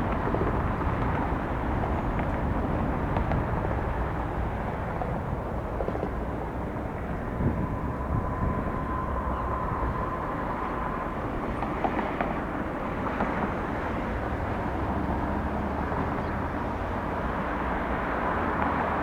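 Airbus A320-200 jet airliner on its landing approach: a steady rumble of engine and air noise, with a faint thin whine in the middle.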